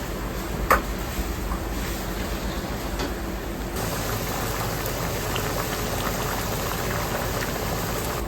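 Ramen shop kitchen noise: a steady bubbling hiss, typical of noodle water boiling, with a sharp clink about a second in and faint small ticks later.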